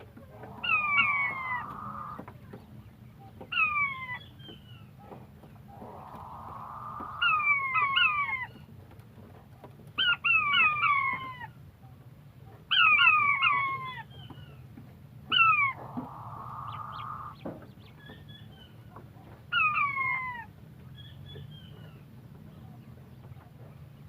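Quail calling: short bouts of one to four sharp, down-slurred notes, repeated every couple of seconds, over a low steady hum.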